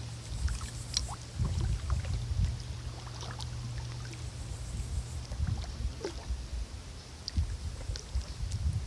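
Kayak paddling on a river: water splashing and dripping from the paddle in scattered short ticks, over a steady low rumble.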